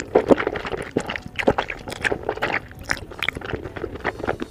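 A mouthful of thick noodles in spicy red broth being slurped in and chewed: a steady run of wet mouth clicks and smacks, several a second.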